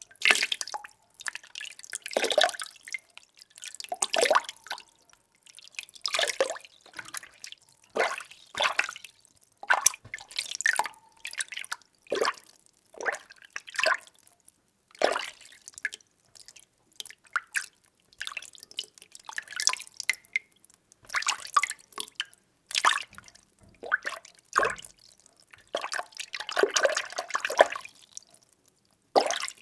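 Water being stirred: irregular splashing strokes about once a second, with a longer stretch of sloshing near the end.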